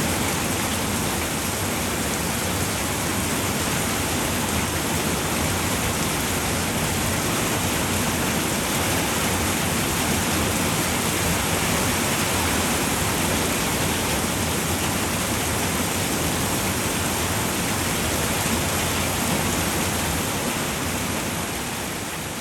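Heavy, steady rain falling on a roof: a dense, even hiss with no separate drops standing out, beginning to fade near the end.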